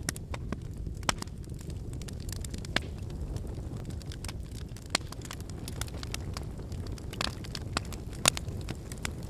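Wood bonfire burning: a steady low rumble of flames with irregular sharp crackles and pops from the burning logs, the loudest pop near the end.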